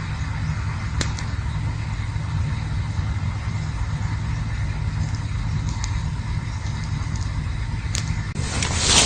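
Campfire burning with a steady low rumble and a few sharp wood crackles, then a louder hissing rush near the end.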